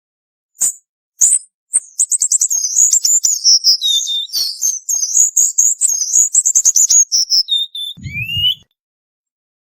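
Cuban bullfinch singing: two high single notes, then a long rapid run of high chirping notes for about five seconds. The song ends with a few lower whistled notes and a short low thump near the end.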